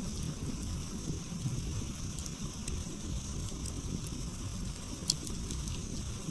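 Wood campfire crackling, with scattered sharp pops from the burning logs over a low steady rumble; one pop about five seconds in is clearly louder than the rest.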